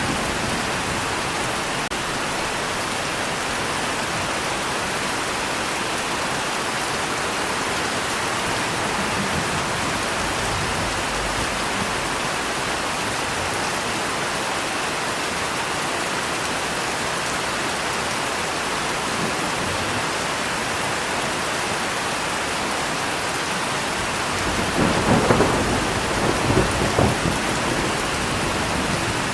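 Steady rain falling without a break. About three-quarters of the way through, a rumble of thunder rolls in and swells over about three seconds, with several loud peaks.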